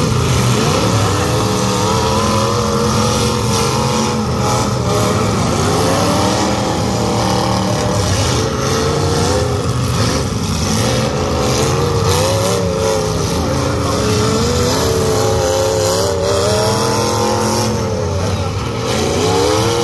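Demolition derby cars' engines revving up and dropping back again and again, several at once, over a steady low rumble.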